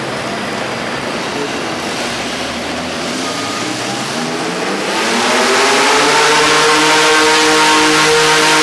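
Mini-rod pulling tractor's engine running, then about five seconds in revving up and holding a loud, steady high note at full throttle, as on a pull down the track.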